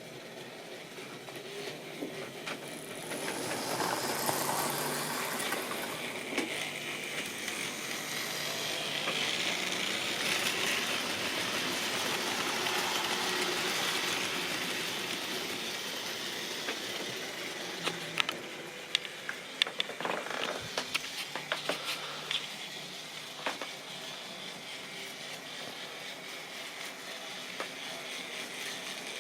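Model railway train running on the track, a steady rumble of motor and wheels that grows louder as it passes close and then fades back. A run of sharp clicks comes about two-thirds of the way through.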